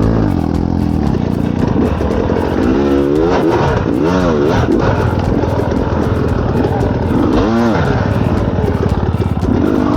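Enduro dirt bike engine running hard, with three quick rises and falls in pitch from throttle blips, two close together about three to four seconds in and one more near seven and a half seconds.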